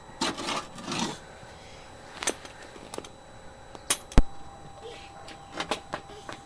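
Scattered metal clicks and knocks from a socket ratchet being handled against the underside of a car, with a rustle in the first second and one hard knock about four seconds in.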